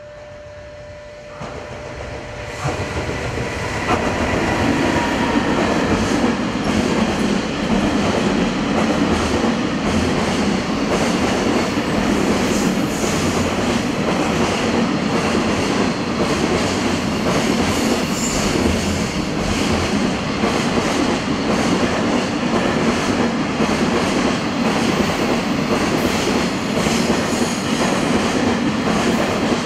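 Freight train hauled by a JR Freight EF210 electric locomotive passing through a station. It builds up over the first few seconds to a loud, steady rumble, with wheels clattering in a rapid rhythm over the rail joints.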